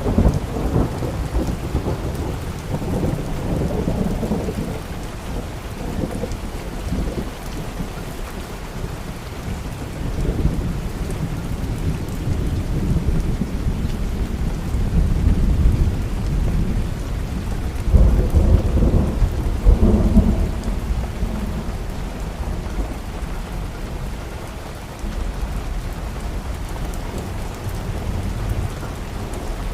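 Steady rain with rolling thunder. The low rumbles swell at the start and again more strongly about two-thirds of the way through.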